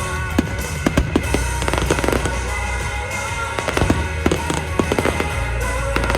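Fireworks going off in many sharp, irregular bangs and crackles, over music with a steady deep bass.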